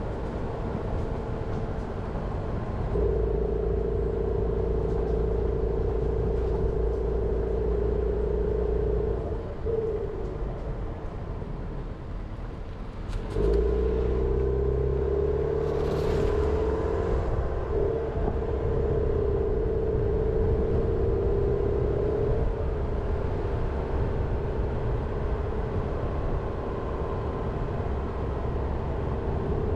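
Jeep Renegade running along a road, a steady engine drone with a tone around mid pitch over a low rumble. About ten seconds in the engine note drops back for a few seconds, then picks up again with a shift in pitch about thirteen seconds in, and a brief hiss sounds around sixteen seconds in.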